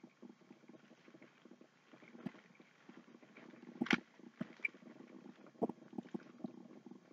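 Faint chewing and mouth clicks from eating a Pop-Tart: irregular soft crackles, with one sharper click about four seconds in.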